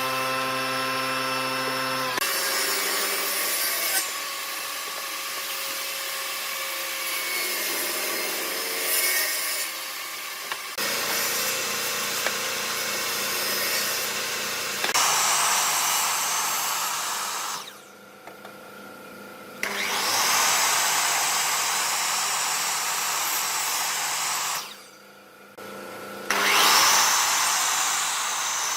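Electric power tool running and working wood in several passes. The motor hum stays steady under the cutting hiss, and the sound drops out briefly twice in the second half.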